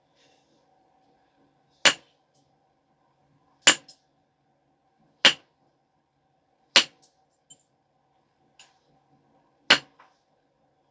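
Knapping strikes on a stone biface being refined: five sharp, clicking cracks of flakes being struck off, roughly a second and a half apart, with a few fainter taps in between.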